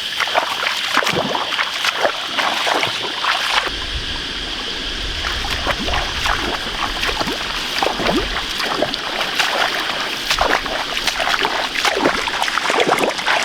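Irregular splashing and splatting in shallow muddy pond water, as fish are caught in the mud. A low rumble joins about four seconds in.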